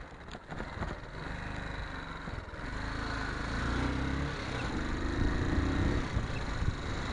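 Yamaha XT250's single-cylinder four-stroke engine picking up speed, its note rising and growing louder from about two seconds in, with a few short knocks near the start.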